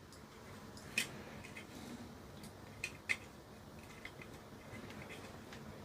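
A few faint, sharp clicks and taps from handling small parts and tools on a workbench: one about a second in and a close pair around three seconds in, over a quiet background.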